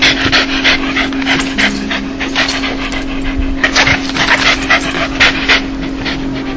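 A dog panting fast in short runs of quick huffing breaths with brief pauses between: the play pant or 'dog laugh' of a happy, excited dog. A steady low hum runs underneath.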